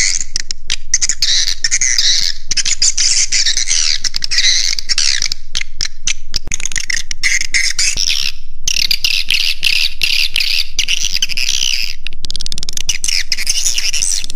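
Swiftlet roosting call ('suara inap walet'), a recording of many swiftlets twittering at once as dense, overlapping high chirps, of the kind played to lure swiftlets to roost. It breaks off briefly about eight seconds in, then resumes.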